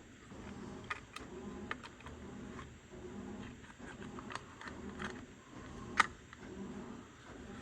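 Light clicks and taps from hands handling a small plastic HO scale locomotive shell and its speaker wires, with one sharper click about six seconds in. A low hum swells and fades underneath about once a second.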